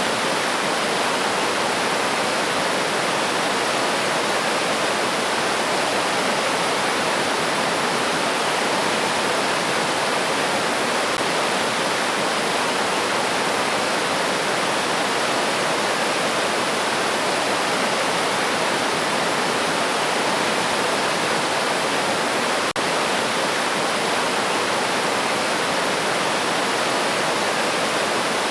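River water flowing steadily: an even, unbroken rush of a stream over its bed.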